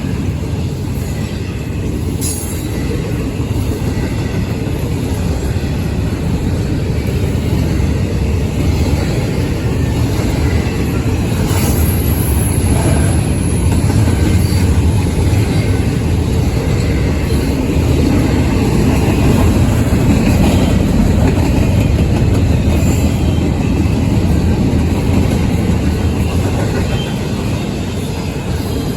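Norfolk Southern intermodal freight train rolling past close by: a steady, loud rumble of wheels and cars on the rails.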